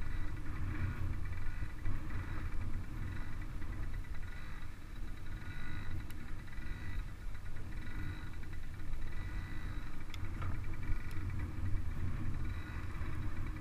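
Small child's dirt bike engine running steadily.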